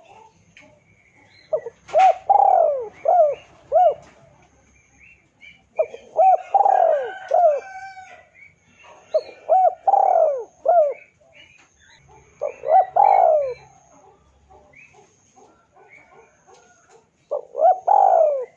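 Spotted dove cooing: five phrases of several short, hoarse rising-and-falling coos, a few seconds apart. Faint chirps of small birds sound between the phrases.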